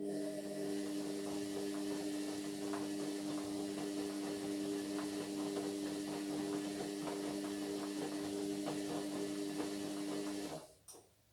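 Indesit MyTime washing machine running a mains-powered part, a fill valve or drain pump, with a steady hum and rushing water. It switches on and off sharply with a relay click at each end, after about ten seconds.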